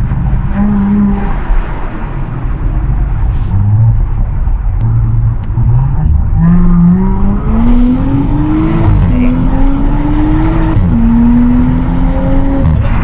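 Audi S5 Sportback's 3.0-litre V6, fitted with an aftermarket downpipe and RS exhaust, accelerating hard, heard from inside the car. In the second half the engine note climbs and drops back twice as it shifts up through the gears.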